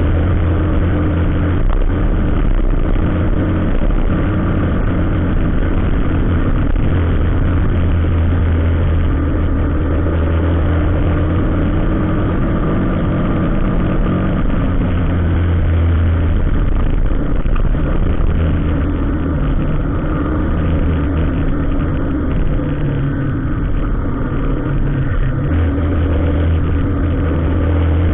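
A vehicle engine running steadily at low speed, a deep drone that swells and eases slightly in level now and then.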